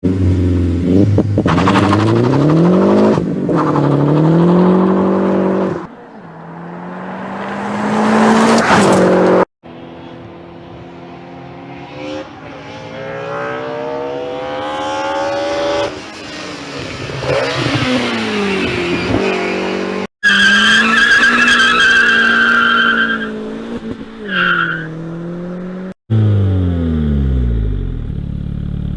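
Inline four- and five-cylinder car engines revving and accelerating, pitch rising and falling with the revs, in several short clips that cut off abruptly about three times. Partway through, a high-pitched squeal sounds over the engine for a few seconds.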